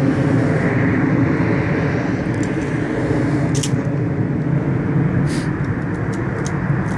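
A motor vehicle's engine idling with a steady low hum, with a few faint clicks over it.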